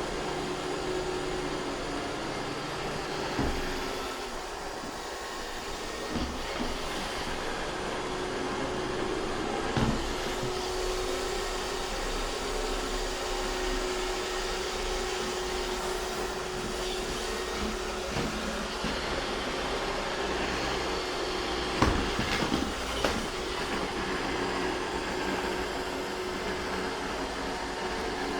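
iRobot Roomba 630 robot vacuum running, its motor and brushes giving a steady whirring hiss with a steady hum through it. A few short knocks break in, the loudest about 22 seconds in.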